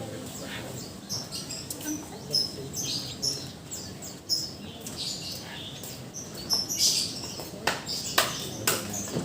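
A siri-siri songbird calling a rapid run of short, high chirps and sharp notes, with several sharper, clicky notes near the end.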